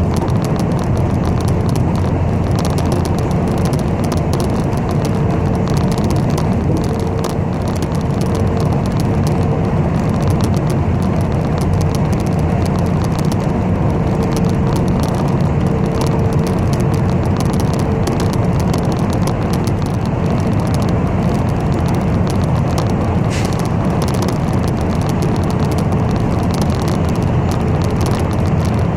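Steady engine and road noise inside a moving city bus, dense and low, with a faint whine that comes and goes in the middle.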